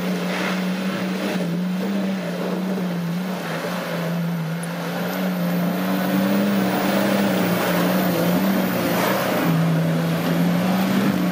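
Off-road 4x4's engine running steadily under load, its pitch wavering a little up and down, over a loud rough rushing noise.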